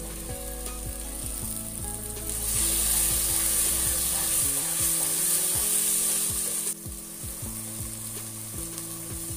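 Onion-tomato masala with green chillies and peas sizzling as it fries in a pan, with a spoon stirring through it. The sizzle grows louder about two seconds in and drops off suddenly about two-thirds of the way through.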